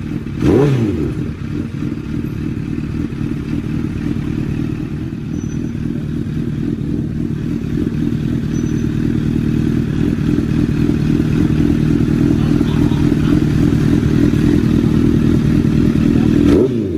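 Honda CBR1000's inline-four engine through an SC-Project aftermarket exhaust: a quick rev blip about half a second in, then a steady idle that grows slightly louder, with another rev starting near the end.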